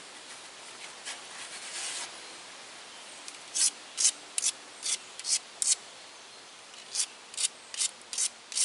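Tiger chert point scraped back and forth against a sandstone abrader in short, quick grinding strokes, about three a second. A soft scratch comes first, then a run of six strokes, a pause, and the strokes start again near the end.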